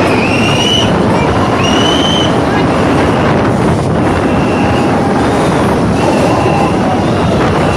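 Train running along the track: a steady, loud rumble of wheels and cars, with high-pitched wheel squeals coming and going, strongest in the first couple of seconds.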